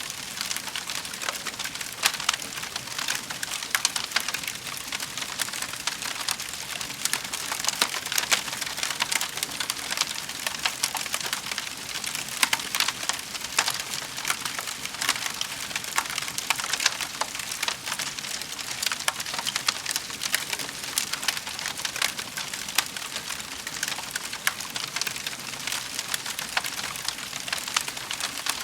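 Wood fire crackling in a fireplace: a dense, steady stream of small pops and snaps.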